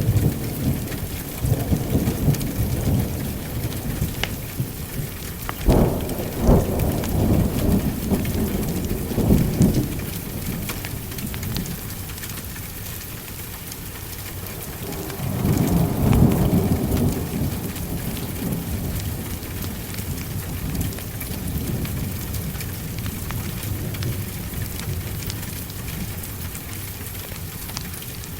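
Heavy rain falling steadily, with thunder rumbling through the first ten seconds, including sharp cracks about six seconds in, and another roll of thunder swelling about halfway through.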